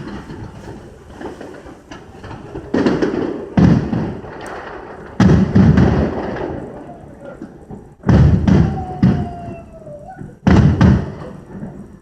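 Aerial firework shells bursting: about eight loud booms in clusters of two or three, each fading out in a long echo.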